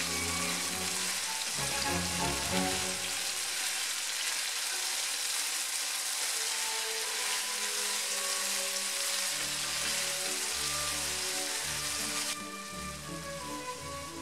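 Cubed chicken and bell peppers in hoisin and oyster sauce sizzling in a hot frying pan while being stir-fried with a spatula; the sizzle drops off sharply near the end. Background music plays underneath.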